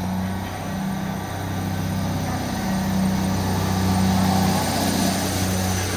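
Northern diesel multiple unit drawing into the platform, its underfloor engines running with a steady hum over wheel and rail noise, growing louder as the carriages pass close by.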